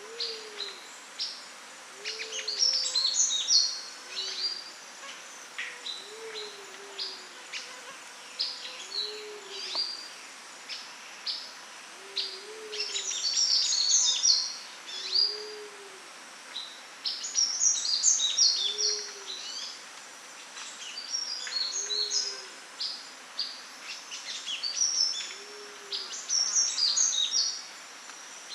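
Sunbird song: several bursts of rapid, high, thin twittering, with single sharp chirps between them. Beneath it, a low hooting note repeats at an even pace about every second and a half.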